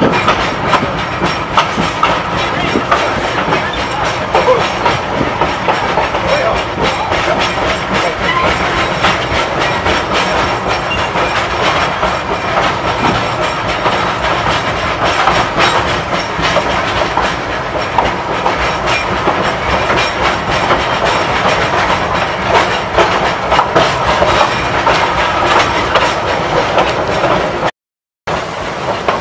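Narrow-gauge passenger train rolling, its wheels clicking over the rail joints with steady running noise, heard from an open car. The sound drops out for half a second near the end.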